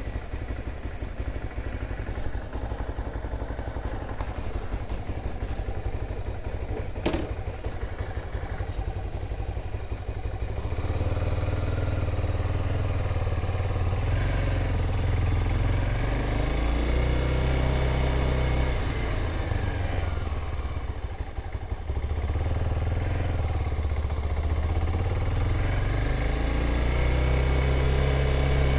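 Honda dual-sport motorcycle engine idling as it warms up from a cold start, running steadily. There is one sharp click about a quarter of the way in, and the engine grows louder and fuller about a third of the way through.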